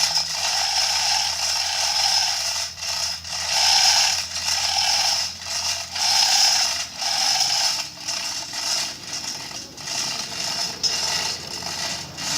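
Manual chain hoist being hauled: the chain rattles through the hoist while the ratchet pawl clicks, in repeated pulls about a second apart.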